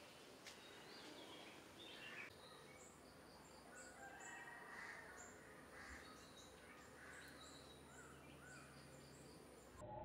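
Faint birds chirping: many short, high calls scattered over a low background hiss.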